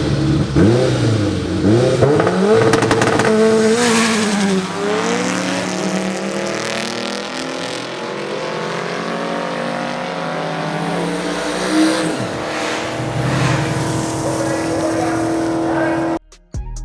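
Drag race car engines revving hard and accelerating down the strip, the pitch rising and dropping repeatedly through gear changes for the first few seconds, then settling into a steadier, fading engine note. The sound cuts off abruptly near the end.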